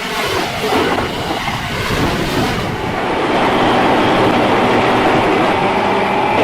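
Train running on rails: uneven rolling noise for about three seconds, then a steadier hum with a faint whine.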